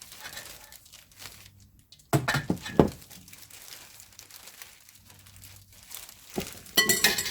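Crinkling and rustling as fresh chives are tossed and coated with kimchi seasoning by hand in a bowl, with two louder bursts, one about two seconds in and one near the end.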